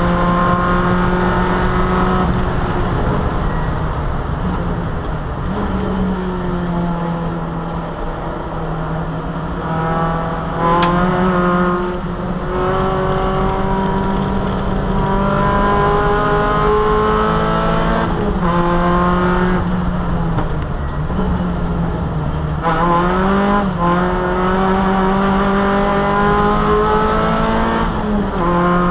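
Opel Kadett E race car's four-cylinder engine pulling hard at high revs, heard from inside the stripped cabin. Its pitch creeps slowly upward on each gear, then breaks and jumps several times as the driver changes gear.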